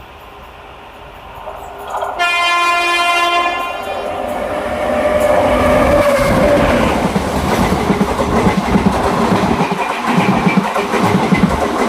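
Indian train sounding its horn once, a steady note of about a second and a half, as it comes close, then passing loudly with rumbling and a rhythmic clatter of wheels over the rail joints.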